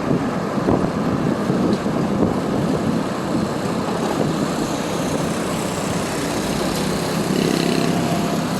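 Motorbike riding at a steady pace: its engine runs evenly under steady road and wind noise.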